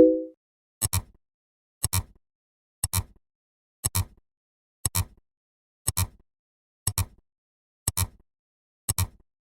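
Sharp double clicks, one pair about every second, nine in all, like a clock's tick-tock sound effect. A short pitched plop sounds right at the start.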